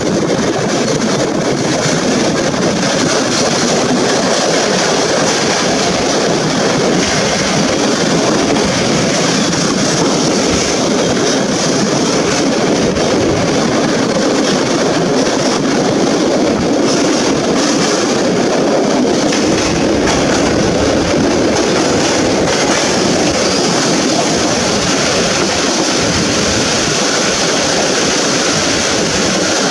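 Passenger train running through a tunnel, heard at a carriage window: a steady, loud rumble of wheels on the rails.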